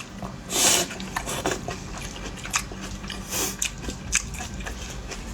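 Person eating close to the microphone: biting and chewing with many short, crisp mouth clicks and two longer noisy bursts, about half a second in and again near three and a half seconds.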